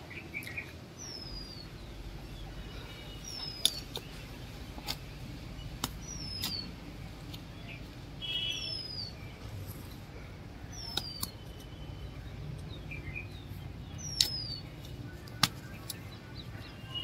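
A bird repeats a short, descending whistled call about every two seconds. Sharp clicks of a hand digging blade striking dry, stony soil come over it, the loudest of them near the end.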